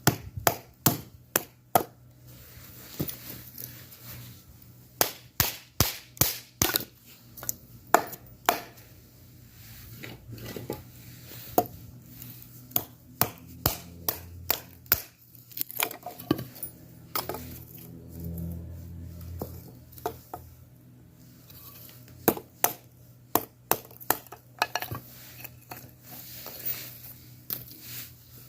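An irregular series of sharp clicks and knocks, some in quick clusters, over a faint low hum.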